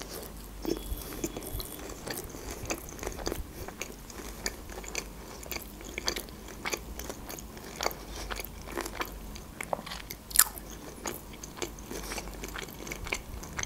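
Close-up mouth sounds of a person chewing a mouthful of sushi roll: many small irregular clicks, with one louder one about ten seconds in.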